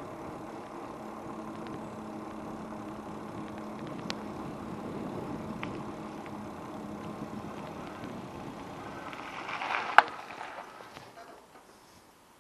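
Steady street and vehicle noise during a bike ride, with a low hum, a few light clicks, and one sharp knock about ten seconds in. The noise then dies away almost to quiet near the end.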